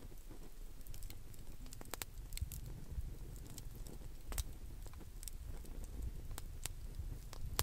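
Wood fire crackling, with scattered sharp pops at irregular intervals over a low rumble.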